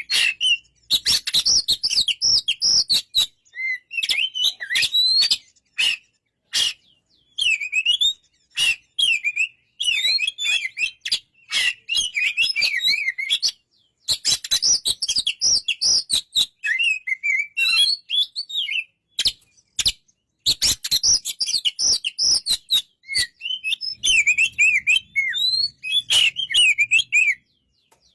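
Oriental magpie-robin singing a varied, fast song of whistled, warbling phrases, in bursts of a few seconds with short pauses, with many sharp clicks between the notes.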